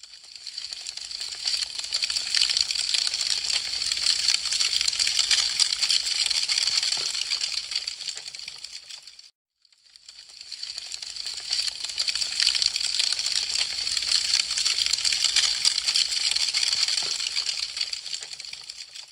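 Wood fire crackling with dense, quick, sharp pops. It is a short loop: it fades in, runs for several seconds, fades out to a brief silence about halfway through, and the same pass starts again.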